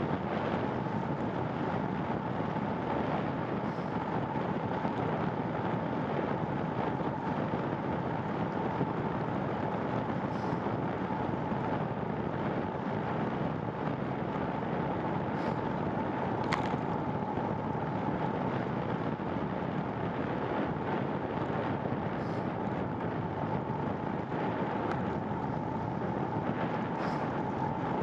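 Steady rushing wind and road noise from riding a bicycle in the rain, with a faint steady whine underneath. A single sharp click about halfway through.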